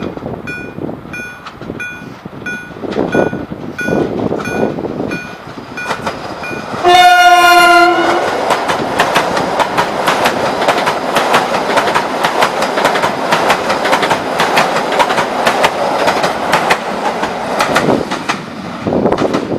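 Level-crossing warning bell ringing about twice a second. About seven seconds in, a train sounds its horn once for about a second, the loudest sound here. The train then passes for about ten seconds with rushing wheel noise and clickety-clack over the rail joints.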